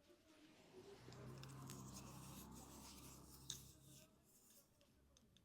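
Faint brushing of hair: a brush's bristles drawn through hair in soft scratchy strokes, with a sharper tick about three and a half seconds in.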